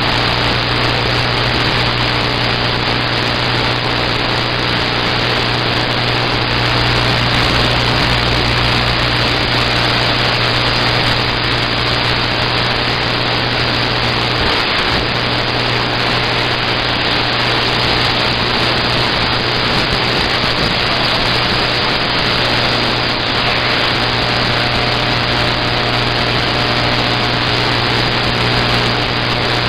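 Steady vehicle running noise: an engine's constant low hum under an even road-noise hiss, unchanging throughout.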